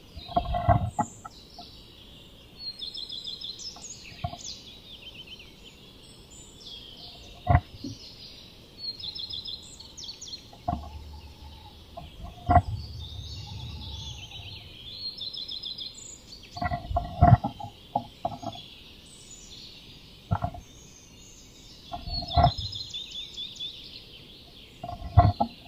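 Small birds singing rapid trills of repeated high notes, with occasional knocks and scrapes on the wooden nest box as a Eurasian nuthatch moves about inside it, about seven in all.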